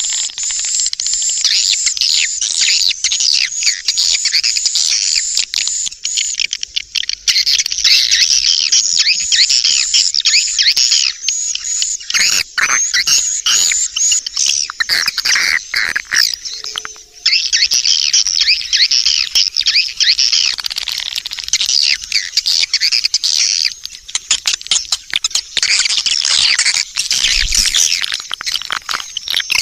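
Swiftlet lure-call recording: a dense, continuous chatter of rapid high twittering chirps, with a short break a little past halfway. It is the sound played in swiftlet houses to draw swiftlets in to roost and nest.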